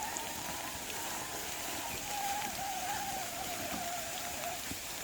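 An Axial RC rock crawler's electric motor whines steadily while crawling, its pitch wavering and dipping slightly toward the end. A steady hiss of rain sits underneath.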